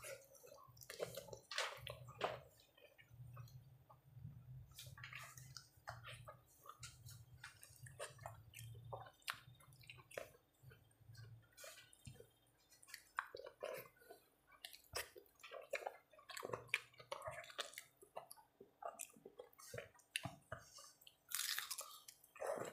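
Faint close-up eating sounds: wet chewing and small mouth clicks and smacks while eating rice and steamed okra by hand, with soft finger-on-plate clicks. A short louder hissing sound comes near the end.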